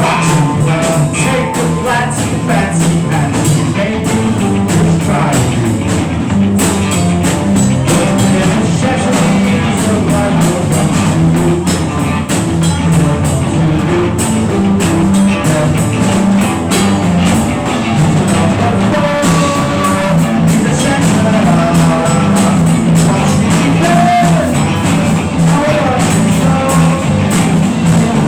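Rock band improvising a jam: a drum kit with steady cymbal and drum strokes under guitar and a low pitched part moving through changing notes, playing continuously.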